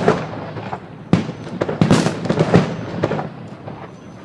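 Water starmine fireworks bursting: a rapid series of sharp bangs with crackling between them, the loudest around two seconds in, thinning out near the end.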